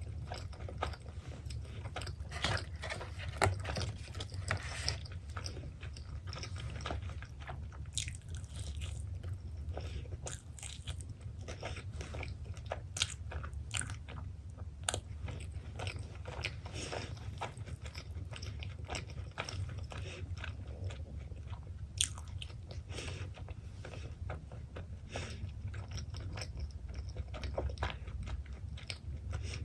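Close-miked chewing and biting of pepperoni pizza, with irregular crunches of crust and small wet mouth clicks over a steady low hum.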